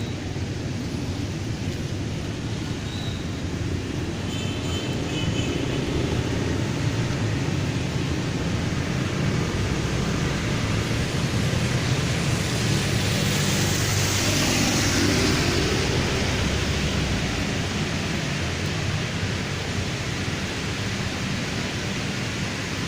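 Traffic on a rain-soaked road: a steady hiss of rain and wet tyres over a low engine rumble. About halfway through, a vehicle passes close and its tyre spray swells, then fades.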